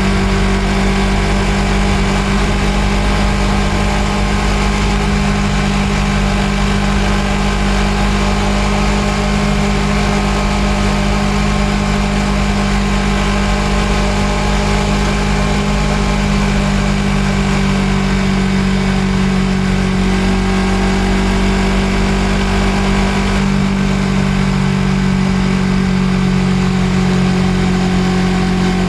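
Suzuki GSX250R's parallel-twin engine running at steady cruising revs under way, heard from on the bike; the engine note shifts slightly about twenty seconds in and again a few seconds later.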